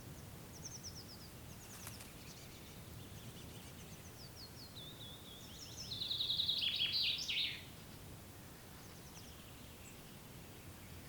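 Songbirds singing, with one loud, fast trilling phrase about six seconds in over fainter chirps, with a low steady rumble of wind underneath.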